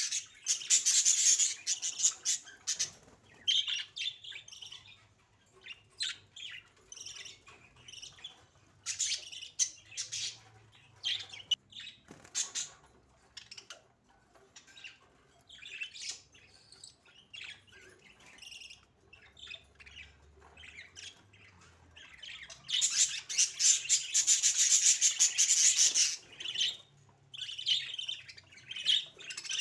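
Budgerigars chirping and chattering in short high calls. There are two long loud bouts of rapid chatter, one about a second in and another a few seconds before the end.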